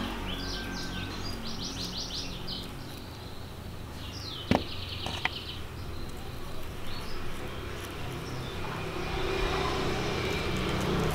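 Small birds chirping in quick runs of high notes, twice, over steady low background noise. Two sharp clicks about four and a half and five seconds in.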